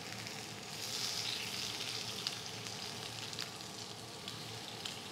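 Silver dollar potatoes sizzling steadily in a skillet, with a few light clicks of metal tongs.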